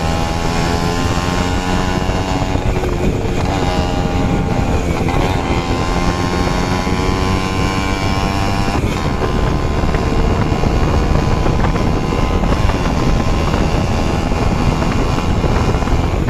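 Yamaha RX100's two-stroke single-cylinder engine running hard, its pitch climbing and then dropping back a few times as it accelerates.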